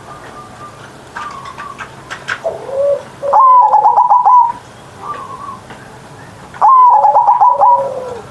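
Zebra dove (perkutut) cooing: two loud coo phrases about a second long, each made of quick repeated notes, near the middle and near the end, with softer coos before and between.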